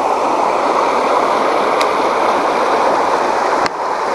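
Creek water rushing steadily, a loud even splashing. A single sharp click about three and a half seconds in.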